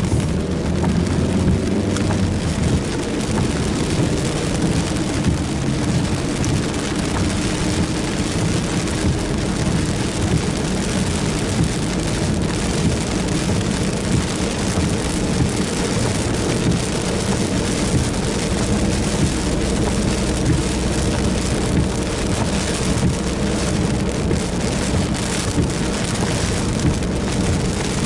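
Steady heavy rain, many individual drops striking close by, over a steady low hum.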